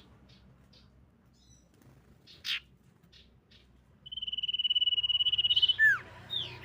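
Common iora calling: a few faint short chirps and one sharp note, then about four seconds in a long, steady trilled whistle of nearly two seconds, followed by two short downward-swooping notes.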